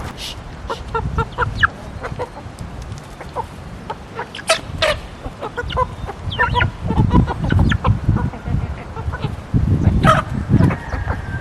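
Domestic chickens clucking in a run of short, separate calls, with a low rumble underneath at times.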